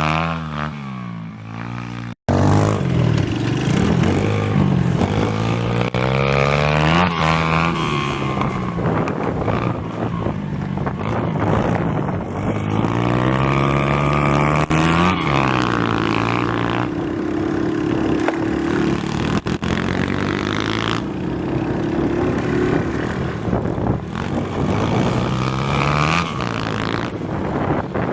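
125cc pit bike's single-cylinder engine being ridden, its pitch climbing and dropping over and over as it revs up and eases off. There is a brief cut about two seconds in.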